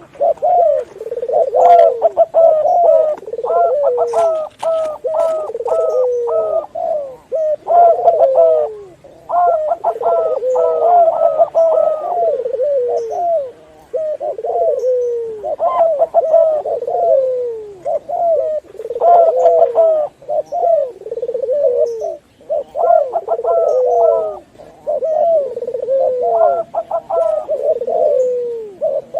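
Several doves cooing at once, zebra dove, spotted dove and Barbary dove, their phrases overlapping in a dense run of short cooing notes with brief gaps every few seconds.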